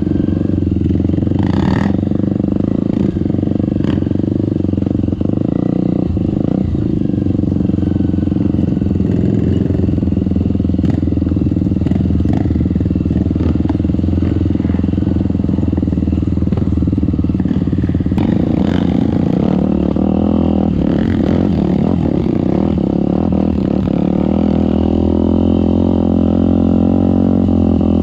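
Off-road trail motorcycle engine running continuously under load, with scattered knocks and clatter; the engine note shifts about two-thirds of the way through and climbs a little near the end.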